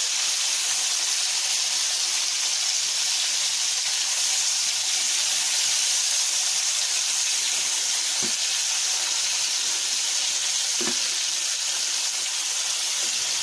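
Floured chicken giblets frying in shallow olive oil in a pan: a steady, even sizzle. Two faint brief sounds come about 8 and 11 seconds in.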